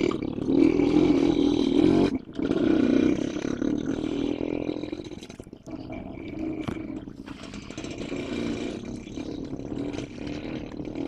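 General Electric diesel locomotive engine running with a loud, deep hum that eases off about halfway through.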